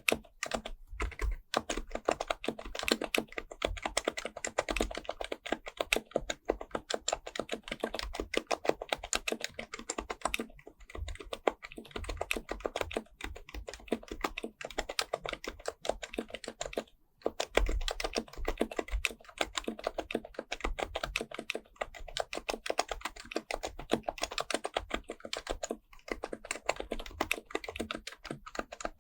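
Fast, continuous typing on an HHKB Pro Type-S, a silenced Topre electrostatic-capacitive keyboard: a dense stream of soft keystrokes, with brief pauses around a third of the way in and again a little past halfway.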